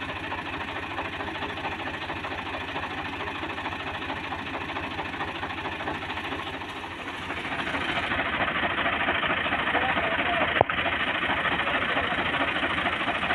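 Tractor engine running with a steady knocking beat, growing louder about halfway through, with a single sharp click near the end.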